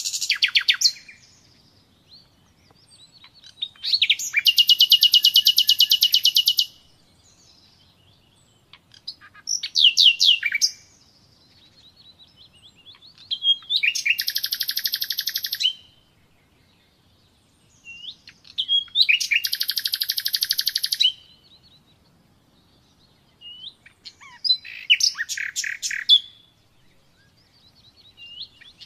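A nightingale singing: about six short phrases, each a rapid run of repeated high notes and trills, separated by pauses of a few seconds.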